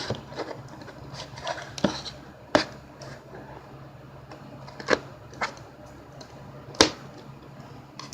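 Action-figure box being opened by hand: scattered sharp clicks and knocks of cardboard and plastic packaging being handled, about six clear ones with the loudest near the end, over a faint steady hum.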